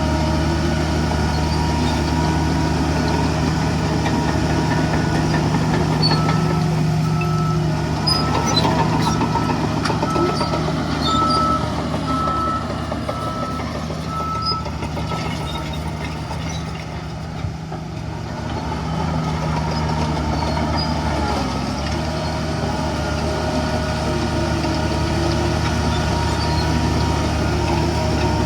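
Heavy diesel engines of a bulldozer and dump trucks running steadily. In the first half a reversing alarm beeps in an even series of short tones, then stops.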